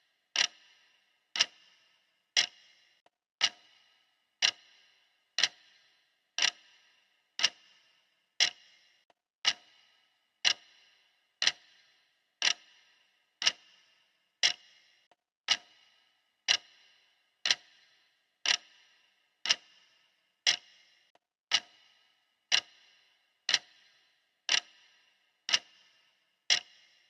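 Steady clock-style ticking of a countdown timer: one sharp tick every second, each with a brief ringing decay, marking off the seconds.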